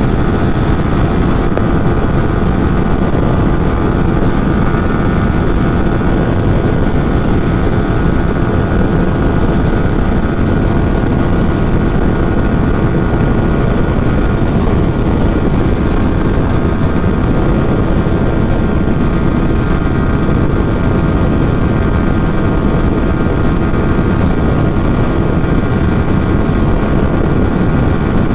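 Yamaha R15 V3's 155 cc single-cylinder engine running at high, steady revs in fifth gear at about 125 km/h. Heavy wind rush on the microphone lies under the engine note.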